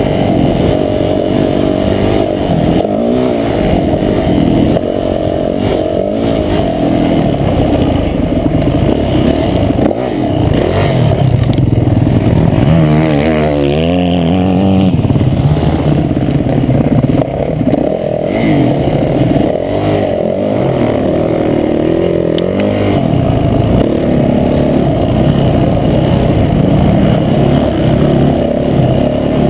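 Motocross bike engine, heard close up from an on-board camera, revving hard and easing off again and again as the rider accelerates and backs off, with a quick run of rises and falls about 13 seconds in.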